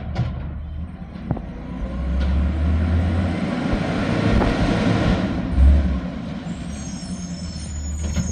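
Garbage truck's engine running, with a loud swell of rushing noise for about three seconds in the middle and a heavy thud right after it.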